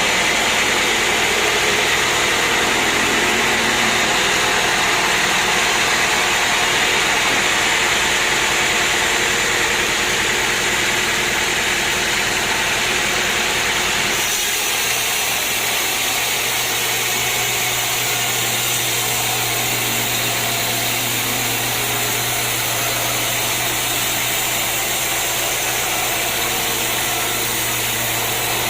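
Sawmill machinery running steadily, loud. About halfway the sound changes abruptly to a different machine note with a steady low hum.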